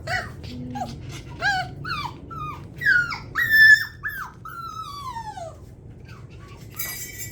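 Seven-week-old puppies whining and whimpering in a run of short, high-pitched cries that slide down in pitch, with a longer falling whine about five seconds in. A small bell jingles near the end.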